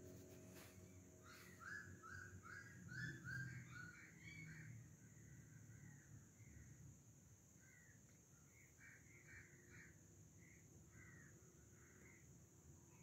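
Faint outdoor bird calls: a quick run of about six short, slightly rising notes starting about a second in, then scattered fainter calls, over a steady high hiss.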